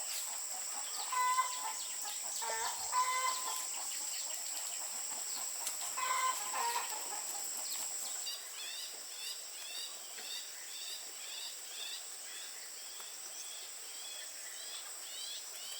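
Chickens clucking in a few short bursts over the first seven seconds, over a steady high whine. After about eight seconds the whine fades and small quick chirps take over.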